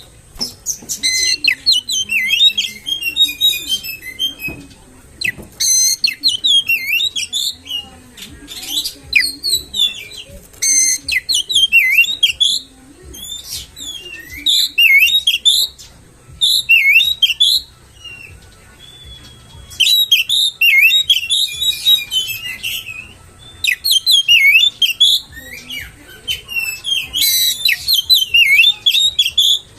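Oriental magpie-robin singing: loud, varied whistled and chattering phrases of rapid rising and falling notes in bursts of a second or two, with short pauses between. This is the kind of lure song that kacer keepers play to provoke their own birds into singing.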